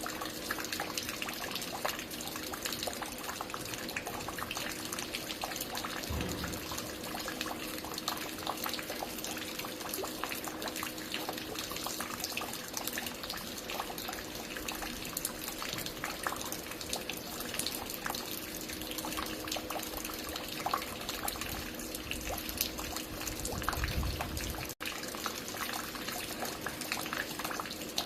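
Water falling and dripping steadily at a construction site: a dense, unbroken patter of many drops splashing, with a faint steady hum underneath.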